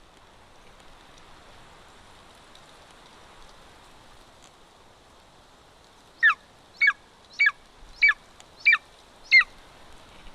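Golden eagle calling: six loud, short calls about half a second apart, each dropping steeply in pitch, starting a little past halfway.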